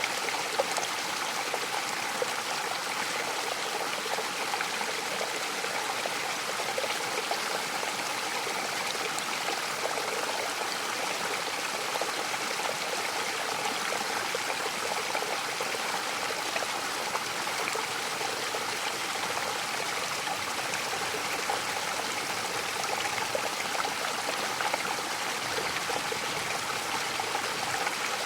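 Mountain waterfall and its stream pouring and splashing in a steady, even rush of water with a trickling texture.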